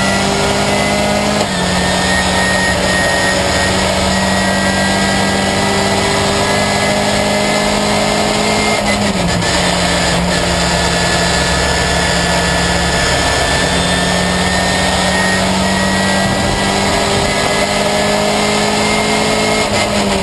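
Ginetta Junior race car's engine heard from inside the cockpit, running hard at speed, its pitch climbing slowly and dipping briefly a couple of times.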